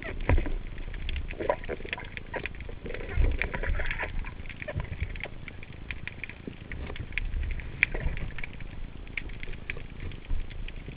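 Underwater sound with an irregular scatter of faint clicks and knocks and a few low thumps.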